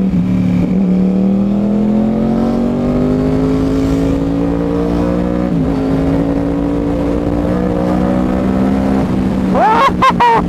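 2011 Yamaha R1's cross-plane-crank inline-four, through a Toce full-system exhaust, pulling hard with its pitch climbing steadily. The pitch drops about five and a half seconds in at a gear change, then holds. Near the end come a few quick, sharp revs rising and falling.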